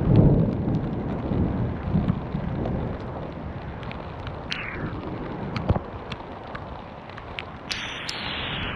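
Gusty wind buffeting the microphone, hardest right at the start, with scattered sharp ticks of hail and rain striking. Twice a hissing sound falls in pitch, the second near the end.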